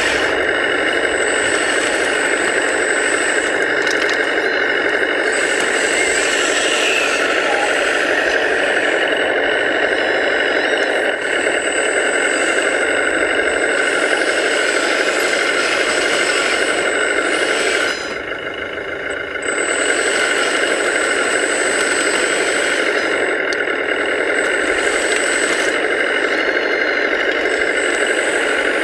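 Radio-controlled hydraulic construction models working: electric motors and hydraulic pumps run with a steady whine and a thin high squeal over them. The sound drops briefly about 18 seconds in, then picks up again.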